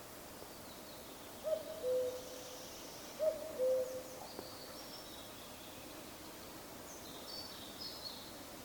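Common cuckoo calling its two-note 'cu-ckoo' twice, a higher note dropping to a lower one. Faint high chirps of small birds come later.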